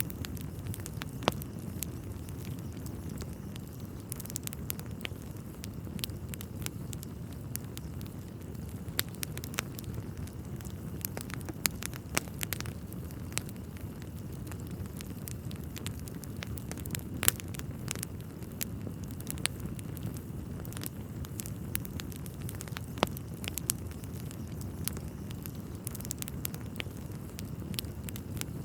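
Wood fire burning in a fireplace: a steady low rumble of flames with irregular sharp crackles and pops from the burning logs, the loudest pops about a second in and about two-thirds of the way through.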